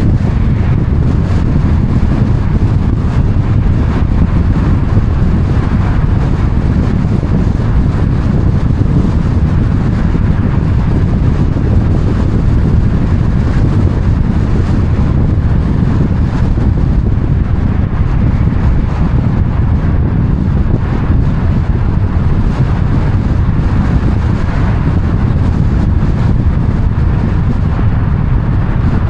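Steady low rumble of wind buffeting the microphone, mixed with the running noise of a moving vehicle.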